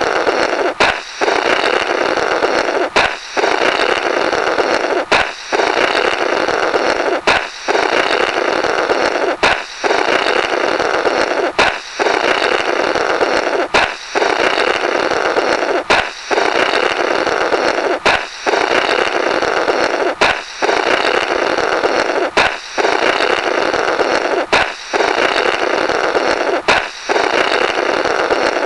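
A comical 'Blorrrt' sound effect repeating over and over, about every two seconds: a balloon pops with a sharp crack, then someone blows noisily through the burst rubber.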